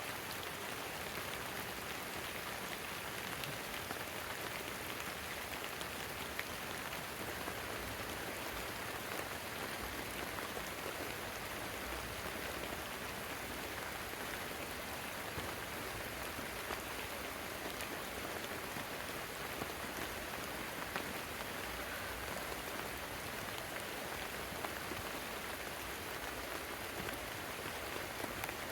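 Heavy rain falling steadily, with scattered louder drop hits.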